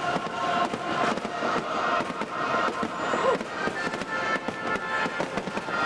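A fireworks finale: many aerial shells bursting in quick, overlapping bangs and crackles. Music plays underneath.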